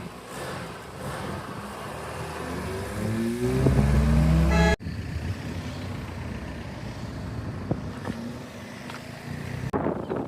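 A car engine accelerating, its pitch rising over a couple of seconds to the loudest point near the middle, then cut off suddenly; quieter steady vehicle and crowd-area noise follows.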